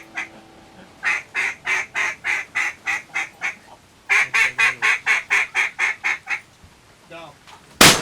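Duck call blown in rapid, evenly spaced runs of loud quacks, about five a second, in three bursts with short pauses between. A shotgun blast goes off right at the end.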